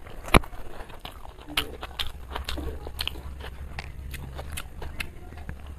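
Chewing and eating sounds of a person eating chicken biryani by hand: a run of short wet clicks, with a sharp click about half a second in.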